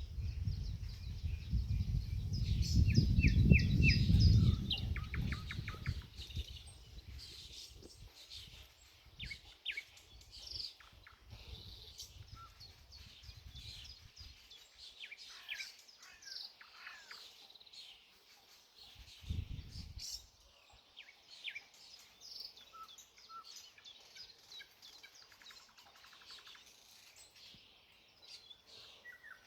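Several songbirds singing and chirping, a dense mix of overlapping high calls and rapid trills. A loud low rumble runs under the first few seconds and comes back briefly about twenty seconds in.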